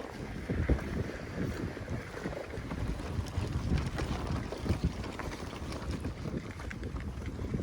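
Wind buffeting the microphone: an uneven low rumble that gusts up and down.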